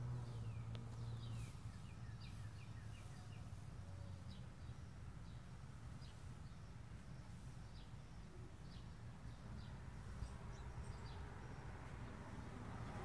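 Faint outdoor ambience with small birds chirping: many short, high chirps scattered throughout, some sliding down in pitch. A low hum fades out within the first few seconds.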